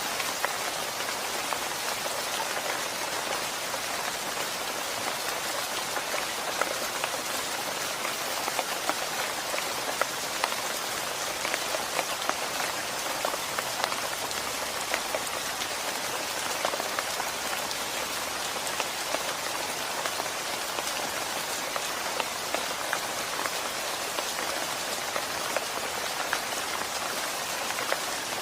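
Steady rain with many individual drops ticking sharply on a hard surface, without a break or change in strength.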